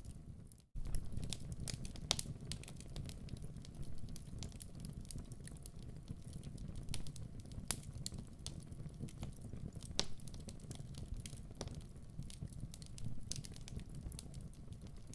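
Wood fire in a fireplace crackling, with irregular sharp pops and snaps over a low rumble. The sound fades out briefly just under a second in, then comes back at once.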